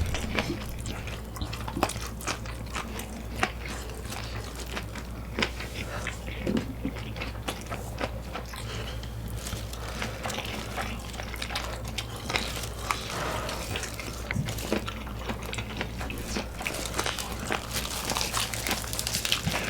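Close-up eating sounds: biting into and chewing boneless fried chicken, with many short crunches and clicks scattered throughout over a low steady hum.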